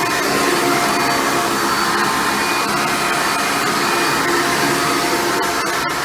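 Hoover Futura (Elite-series) upright vacuum cleaner running steadily, its motor and brush roll working on carpet: a constant rushing noise with a steady hum.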